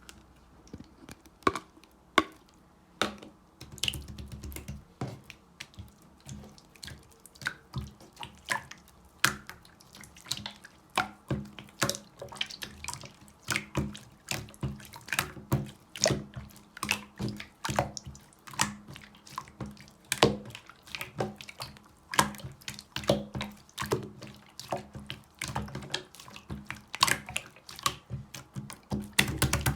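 Clear slime being squeezed and pressed by hand, making a run of short wet sticky clicks and pops at about two to three a second.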